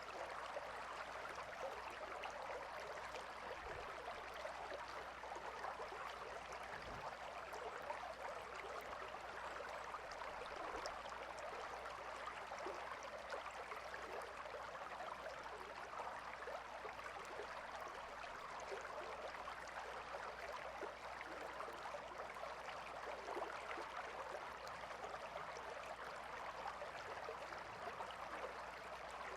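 Calm river flowing: a steady rush of water with many small splashes and gurgles.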